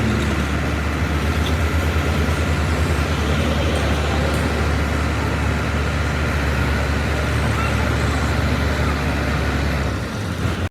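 A motor vehicle's engine running steadily: a low, even hum with road or traffic noise.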